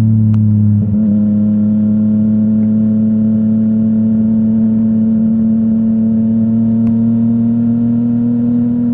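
Yamaha MT-09's three-cylinder engine through a full Akrapovic exhaust, pulling at steady revs on the move. A brief dip about a second in, like a gear change, is followed by an even note that creeps up very slightly in pitch.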